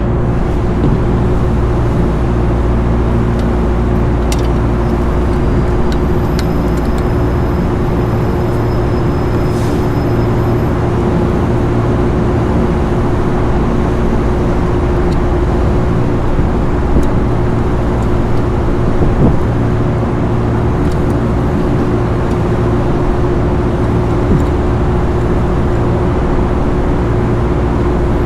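Steady machine drone: a constant mid-pitched tone over a low rumble, with a few faint ticks.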